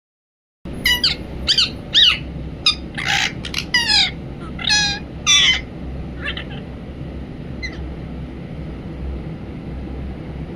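Indian ringneck parakeet calling: a quick run of high squawks and chattering calls, a couple of them harsh screeches, over the first half, then a few faint single calls.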